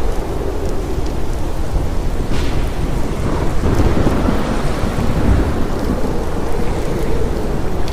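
Heavy rain with continuous low rumbling thunder, a steady storm sound.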